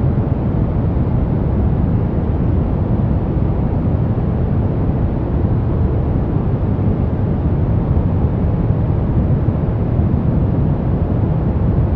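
Steady relaxation noise track sold as white noise: an even, unbroken rush with no tones or events, deep and rumbling, strongest in the low end and dull in the highs.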